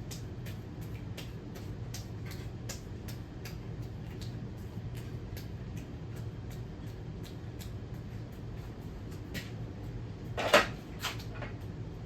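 Casablanca Four Seasons ceiling fan coasting down after being switched off. It gives a light, even tick about three times a second over a low hum. A sharp knock comes about ten seconds in.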